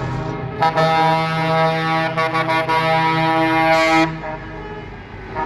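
Truck air horn blowing one long, steady chord-like blast of about three and a half seconds, starting just under a second in and cutting off near the end.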